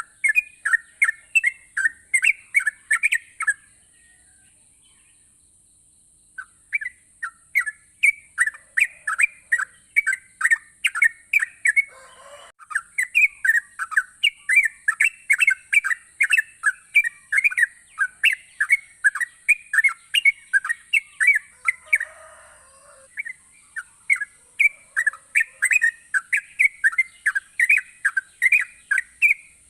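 Sooty-headed bulbul (trucukan) singing in long runs of quick chirping notes, about three to four a second, with a pause of a couple of seconds near the start and a brief lull later on. A faint steady high hiss lies underneath.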